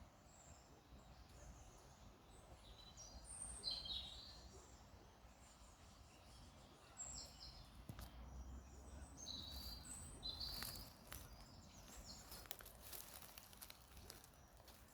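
Small birds chirping faintly in short scattered calls, with the clearest call about four seconds in, over a low steady outdoor background rumble.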